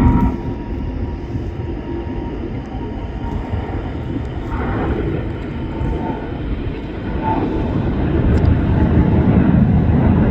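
Jet airliner's engines rumbling as it moves on or near the runway, growing louder near the end.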